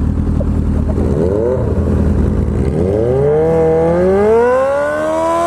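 Motorcycle engine pulling away: a short blip of revs about a second in, then a long steady climb in revs from about three seconds in as the bike accelerates, easing off near the end.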